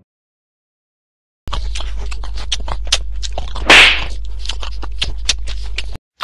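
Dead silence, then a steady low hum with many scattered clicks and crackles, typical of an amateur recording's noise floor; a loud breathy rush comes about halfway through, and the hum cuts off abruptly near the end.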